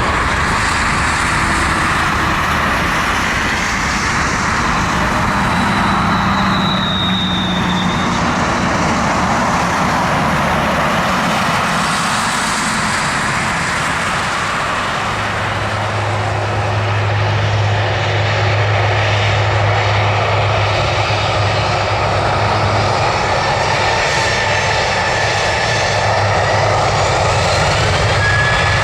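Jet airliner engines running with a steady, loud rush, with faint whining tones over it.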